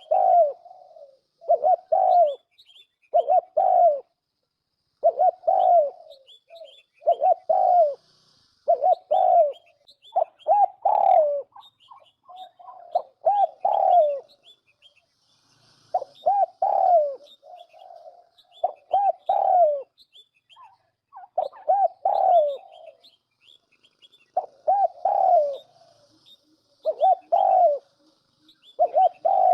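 Turtle dove cooing over and over in short phrases of a few notes, about one phrase every second or two. Faint high chirps from small birds run above it.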